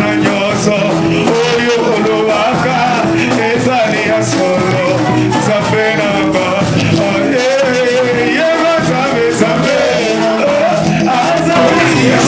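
Worship music with voices singing over steady instrumental accompaniment.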